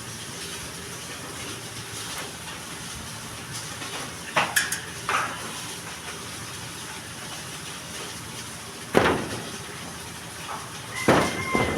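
A few sharp metal clanks, several seconds apart, over a steady hiss. Near the end an animal gives a drawn-out call.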